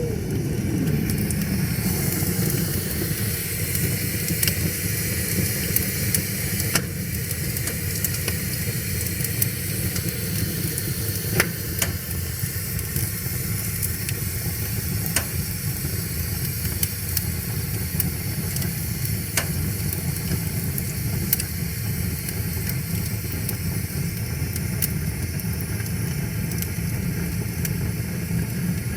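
Wood fire crackling, with scattered sharp pops, over a steady low rush of river water.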